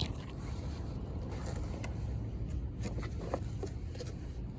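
Oxy-acetylene torch flame burning with a steady rumble and hiss, heating copper pipe before brazing, with a few light clicks.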